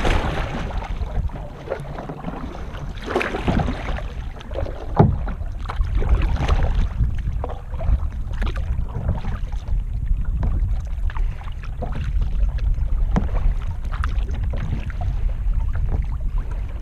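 Kayak paddle strokes splashing in the water at irregular intervals, over a steady rumble of wind on the microphone.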